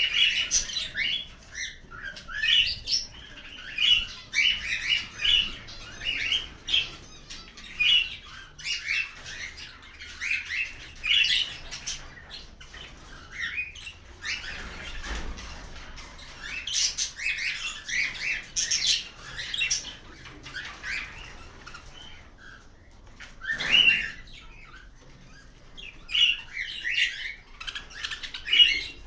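A flock of cockatiels chirping and calling, many short overlapping calls with no pause, and a brief louder rustle about three-quarters of the way through.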